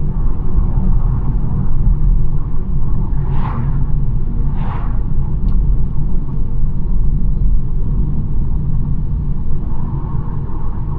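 BMW 1 Series driving along a country road: a steady low rumble of tyres and engine, with two short hissing swishes about three and a half and five seconds in.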